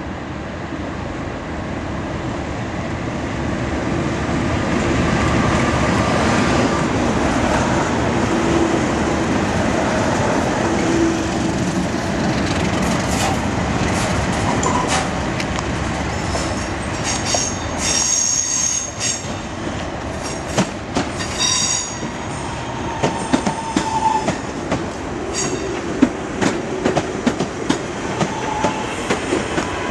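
English Electric Class 37 diesel locomotive passing under power, its engine noise building over the first few seconds and loudest in the first half. The freight wagons follow, with high wheel squeals in the middle and a run of sharp clicks as the wheels cross rail joints near the end.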